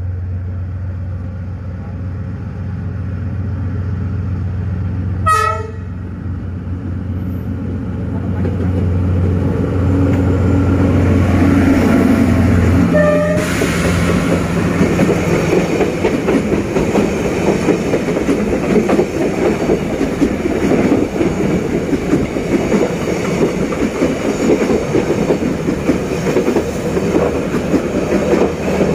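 D19E diesel-electric locomotive hauling a passenger train: its diesel engine drones steadily and grows louder as it approaches, with a short horn blast about five seconds in. From about thirteen seconds in, the passenger coaches roll past close by with a dense clatter of wheels on the rails.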